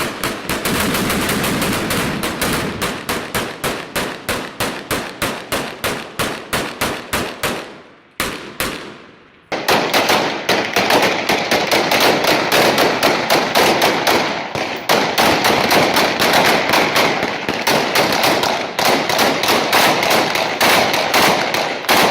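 Sustained automatic gunfire: a steady run of rapid shots for about eight seconds, a brief lull with a single shot, then denser fire that keeps going.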